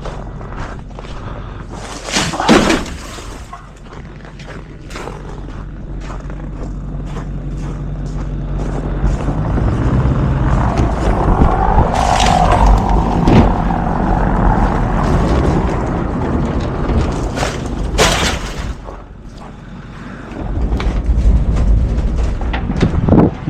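Garbage truck running, its engine noise building for several seconds to a loud, steady working pitch and then easing off, with a few sharp bangs and clatters along the way.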